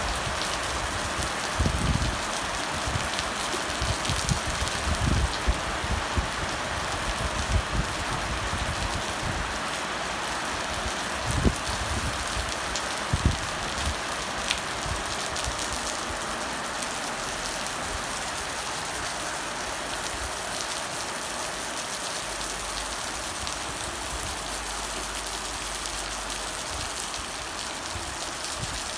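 Heavy monsoon rain pouring down in a steady dense hiss. In the first half, irregular low gusty thumps of wind buffet the microphone, then die away.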